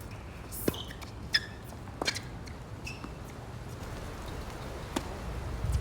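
Tennis being played in strong wind: wind rumbles on the microphone, swelling near the end. Over it come a few sharp knocks of the ball and a couple of brief shoe squeaks on the court.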